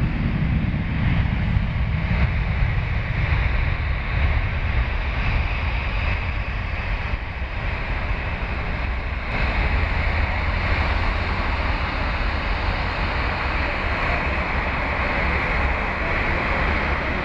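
Jet aircraft engine roar with a deep rumble that fades over the first few seconds, then a steady hiss-like roar that grows louder about halfway through. Wind buffets the microphone.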